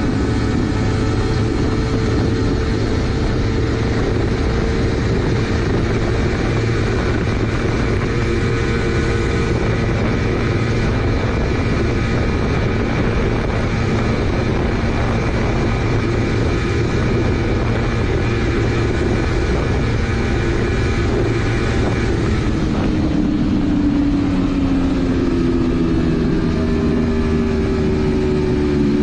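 Motorcycle engine running steadily at high speed under a dense rush of wind noise; about three-quarters of the way through the engine note falls in pitch.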